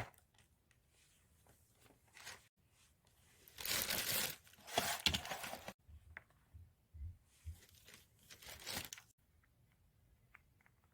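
Several short bursts of rustling noise, with a few faint clicks near the end.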